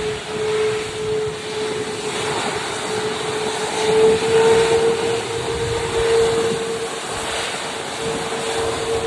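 Airbus A330 jet engines running at taxi power: a steady rush of jet noise with one held tone in it.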